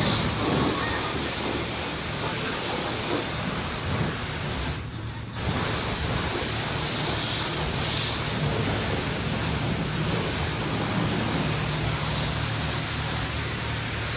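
High-pressure spray wand at a self-serve car wash, hissing steadily and breaking off briefly about five seconds in, over a low steady hum.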